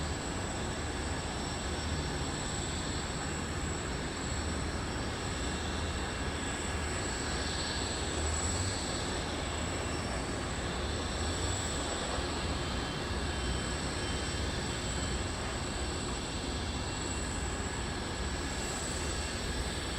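Jet aircraft engines running steadily: a continuous rumble with a thin, high, steady whine.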